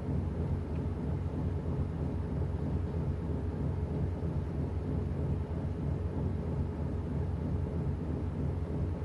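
Washing machine running mid-cycle: a steady low rumble from the motor and turning drum that does not change.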